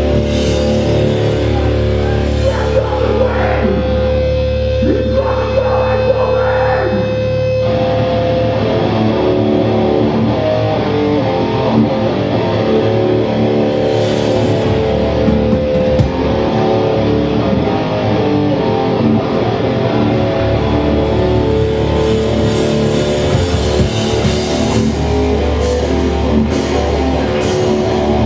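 A hardcore punk band playing live and loud, mostly distorted electric guitar and bass holding ringing chords, with wavering guitar notes or feedback a few seconds in. Sharp cymbal-like hits come near the end.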